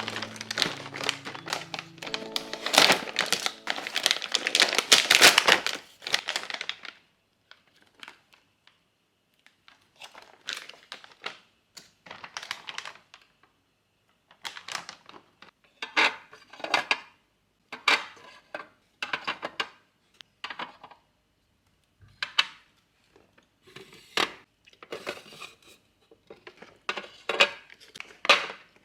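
Packaging crinkling and tearing, dense for the first several seconds, then broken into short separate rustles and light handling clicks.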